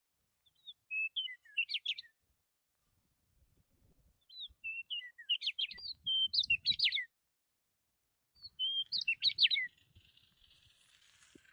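Budgerigar chirping in three short bursts of quick, twittering notes, a few seconds apart.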